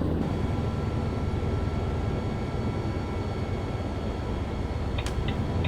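Truck engine running with a steady low drone and road noise. About five seconds in, the turn-signal indicator starts ticking evenly, for the left turn being set up.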